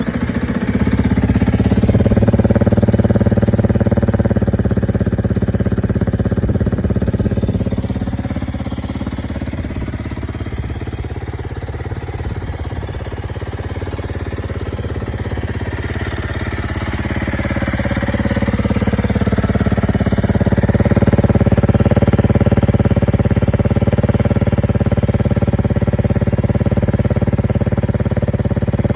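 Honda CRF300L single-cylinder four-stroke engine just started and running, through the stock muffler with its spark arrestor removed. It settles lower about eight seconds in and picks up again about twenty seconds in.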